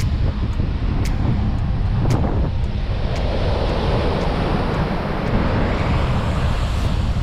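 Strong wind buffeting the microphone in a steady, heavy rumble, with ocean surf washing behind it.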